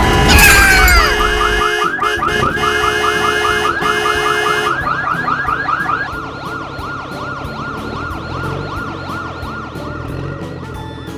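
Electronic siren sounding in a fast yelp, about five sweeps a second, that slows to a slower warble about six seconds in.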